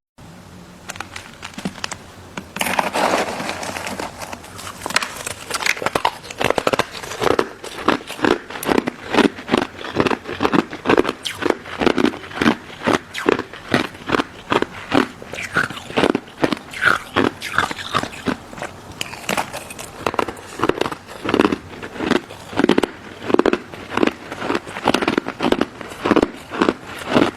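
Close-miked biting and chewing of a crunchy pink crystal-ice dessert: a big crunching bite about three seconds in, then steady chewing with about two crunches a second.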